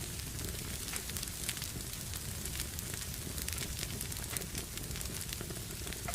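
Wood fire burning in a fireplace, crackling with many small, irregular pops over a low, steady rumble of flames.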